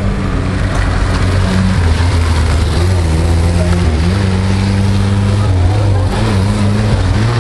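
Small rear-engined Zastava 750 (Fića) car engine revving up and down as the car weaves through a cone course, its pitch rising and falling several times.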